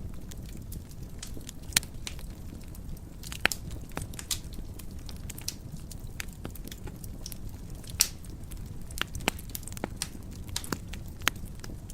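Wood fire crackling in a fireplace: irregular sharp pops and snaps over a steady low rumble of the flames, with a few louder pops about 2, 3.5 and 8 seconds in.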